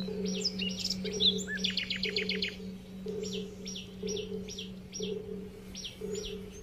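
Small birds chirping and calling: a string of short, high, falling chirps repeated about twice a second, a quick trill of about eight notes around two seconds in, and a few thin whistled notes near the end. A steady low hum runs underneath.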